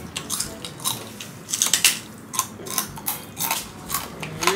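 Crispy pork chicharon (deep-fried pork crackling) crunching as it is bitten and chewed: a string of sharp, irregular crunches, a few a second.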